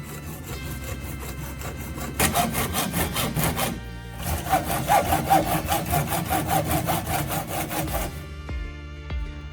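Rapid, rhythmic scraping strokes, like sawing, in two spells: a short one about two seconds in and a longer one of about four seconds after a brief pause.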